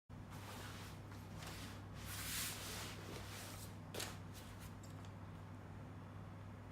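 Handling noise: a few soft rustling swishes, the loudest about two seconds in, and a light click about four seconds in, over a steady low hum.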